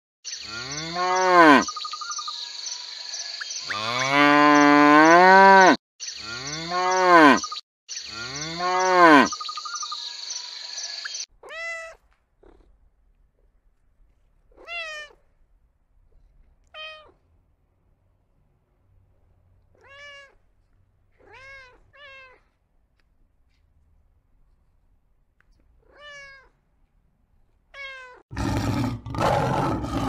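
A Holstein cow mooing four times in long, loud calls, one of them longer than the rest, over a steady high hiss. Then a cat meowing about eight times in short, softer meows, and near the end a lion begins to roar.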